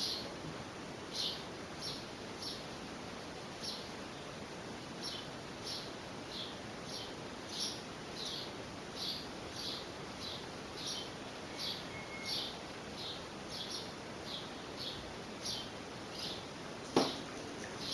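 A small bird chirping in a steady run of short, high chirps. A single sharp knock sounds near the end.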